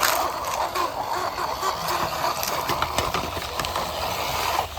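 Toy double-decker bus run along the ground: a steady whirr from its wheels and mechanism, with scattered clicks, dying away near the end.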